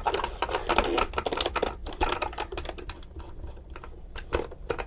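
Quick irregular plastic clicks and taps as the plastic body of a Radio Shack M4 Sherman toy tank is handled and worked apart, dense for about two seconds, then sparser.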